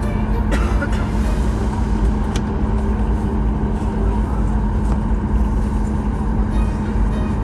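Steady airliner cabin noise on the ground: a low rumble with a constant hum underneath and a few faint clicks.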